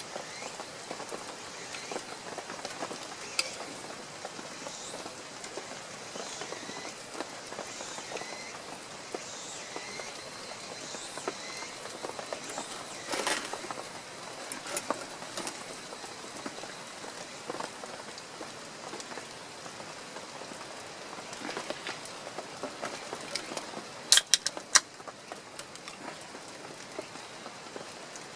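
Steady rain falling and pattering, with a few sharp loud pops about 24 seconds in.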